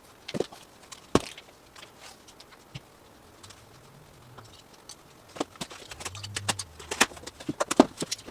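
Irregular sharp clicks and taps from garage door insulation panels being handled and fitted: a loud tap about a second in, then a quicker, uneven run of taps over the last few seconds.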